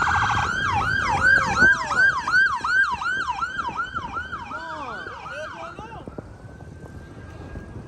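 Police car siren on yelp: a repeated falling-and-rising wail, about three sweeps a second. It stops about six seconds in, leaving only a faint held tone.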